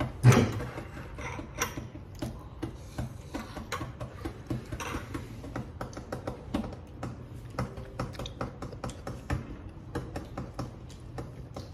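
Close-up chewing of crunchy food: irregular crisp crunches and wet mouth clicks, a few a second, with a louder bite or slurp just after the start.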